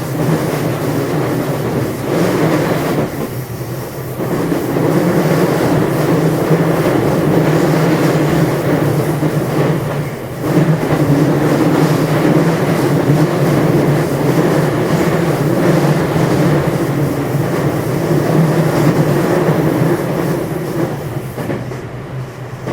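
JR West 227 series electric multiple unit motor car (Hitachi IGBT VVVF inverter control) running at speed, heard inside the car: a steady hum and rumble of traction motors and wheels on rail with rail-joint clatter. It briefly dips twice and gets quieter near the end.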